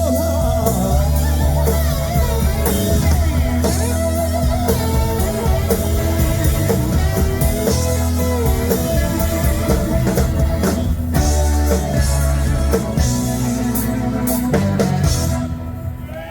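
Live band music, electric guitar over bass and drums, coming to a close about fifteen seconds in.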